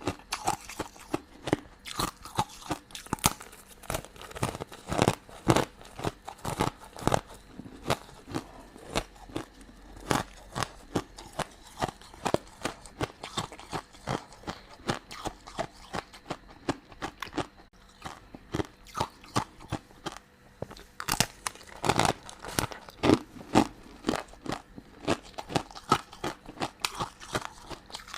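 Close-miked biting and chewing of crunchy, sugar-crusted sweets: dense, sharp crunches that thin out a little past the middle, then come thick and loud again about three quarters through.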